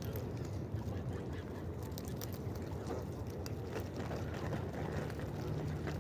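A flock of feeding waterfowl calling and squabbling, with scattered short calls and clicks over a steady low rumble.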